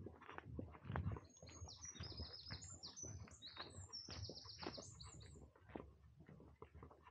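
A songbird sings a fast, high twittering phrase of quick repeated notes for about four seconds, over steady footsteps on a path heard as a run of short clicks and soft thumps.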